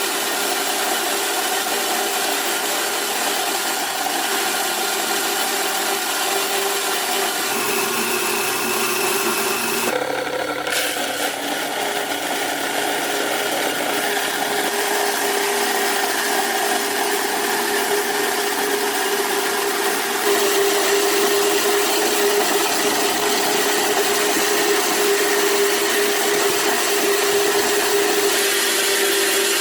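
Steady rasping mechanical noise with a constant hum, running without a break and changing in tone abruptly about ten seconds in.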